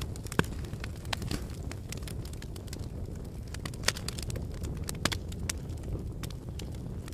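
Wood fire burning in a fireplace: a steady low rumble of the flames with frequent sharp crackles and pops, the loudest about half a second in and again near four seconds in.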